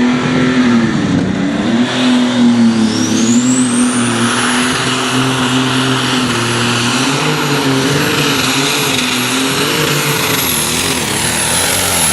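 Pulling tractor engine running hard under full load during a pull, its note wavering. A high whine climbs steeply about two seconds in and then holds high.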